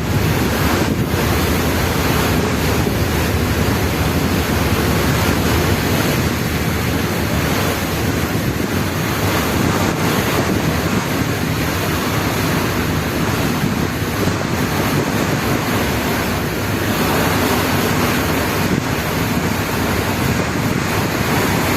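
Wind buffeting the microphone on a passenger ferry, over the steady rush of water along the hull and a low hum from the ferry's engines.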